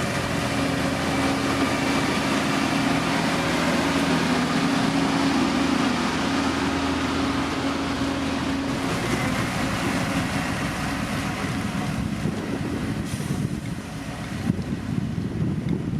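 Heavy road-construction machine's diesel engine running steadily. Its engine note fades after about half-way, and rougher rumbling noise takes over near the end.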